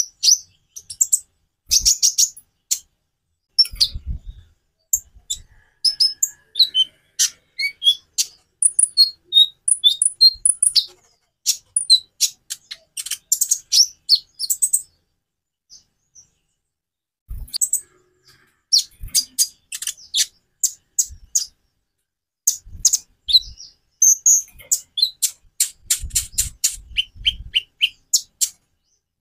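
Konin (kolibri ninja) sunbird singing: rapid runs of high, thin chirps and trills, with a short pause about halfway through. A few low thumps come in between the phrases.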